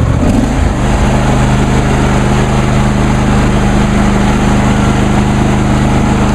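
John Deere D130 lawn tractor engine running while the tractor is driven with the mower blades disengaged. Its pitch rises in the first second, then holds steady.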